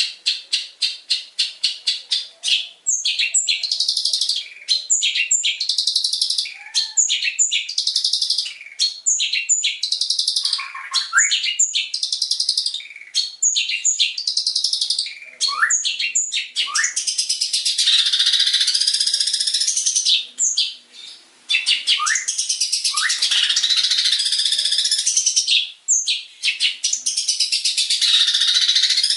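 Long-tailed shrike (cendet) singing a fast, varied song of mimicked bird calls. It opens with a rapid run of repeated chips, then gives short whistled and swooping phrases, and in the second half several long harsh, scratchy chattering stretches.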